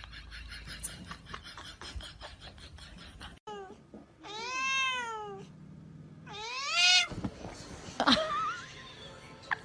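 A cat meowing: two long drawn-out meows, each rising and then falling in pitch, then a shorter sharp call. They are preceded by a quick run of rhythmic pulses, about eight a second, that stop abruptly.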